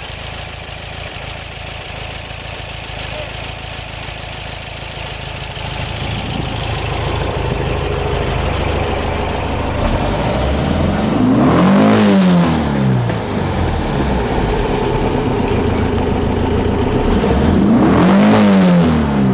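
Air-cooled 2000 cc Volkswagen Type 2 flat-four with big-valve cylinder heads idling, then revved up and back down twice, with the revs peaking about twelve seconds in and again near the end.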